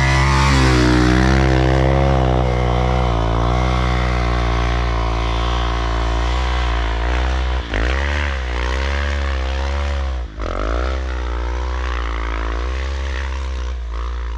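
Dirt bike engine revving hard on a steep snowy climb, its pitch rising and falling with the throttle and dropping sharply twice around the middle before picking back up.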